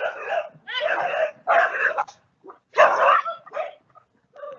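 An animal giving a series of short, rough, bark-like calls, about five in four seconds.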